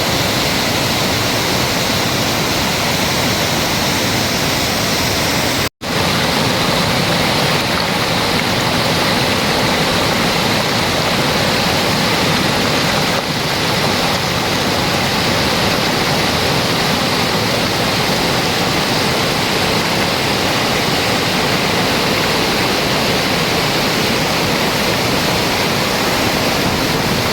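Steady rush of water from a rain-filled pond, cutting out for a moment about six seconds in.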